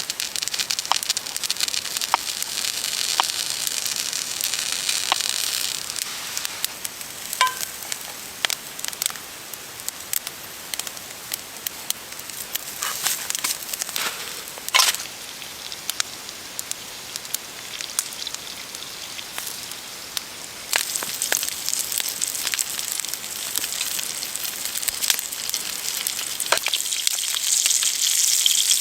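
Food sizzling in a pan over a campfire, with the sharp pops and crackles of burning wood. The sizzle is stronger at the start, eases in the middle, and builds again over the last several seconds.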